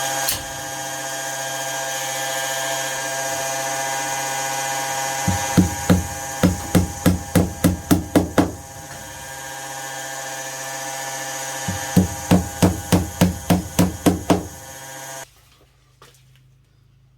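Two runs of rhythmic back-and-forth sawing strokes, about three a second and roughly ten strokes each, over a steady electrical hum that cuts off abruptly near the end.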